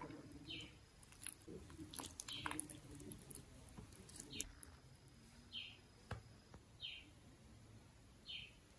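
Faint short high chirps, one about every second and a half, like a bird calling steadily, over soft scraping and dull plops of butter being pushed from a container onto flour with a silicone spatula, with a few light clicks in the first half.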